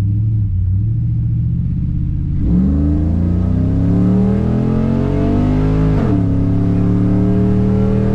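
Car engine heard from inside the cabin. It runs steadily at first, then revs up under hard acceleration from about two and a half seconds in. Near the six-second mark it drops in pitch at an upshift and pulls again in the next gear.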